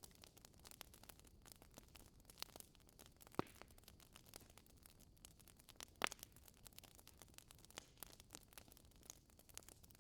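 Wood fire crackling in a fireplace: a constant patter of quiet small crackles, with two louder pops, one about a third of the way in and one just past the middle.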